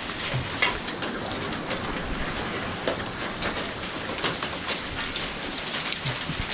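Light rain pattering, with scattered sharp ticks of drops landing.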